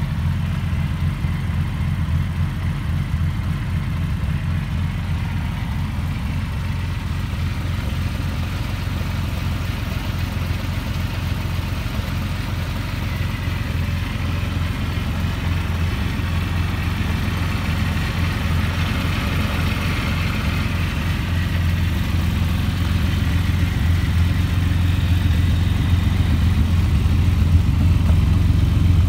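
TVR Tamora's 4.3-litre Speed Six straight-six engine idling steadily, getting gradually louder towards the end.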